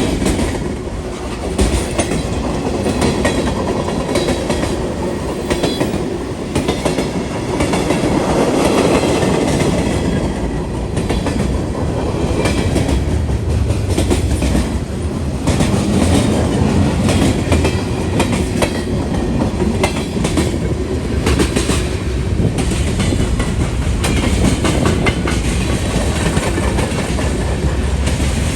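CSX freight train rolling past, its wheels clacking over the rail joints in a steady stream of clicks over a continuous low rumble.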